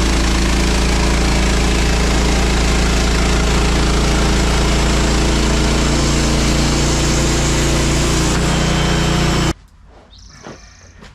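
Woodland Mills portable bandsaw sawmill's gas engine running steadily and loudly, with a low, even drone. It cuts off suddenly about nine and a half seconds in.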